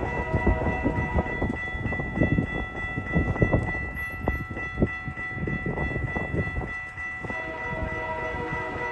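Train passing close by: a rumble with quick knocks of wheels over the rail, under a set of steady held tones that fade in the middle and come back strongly near the end.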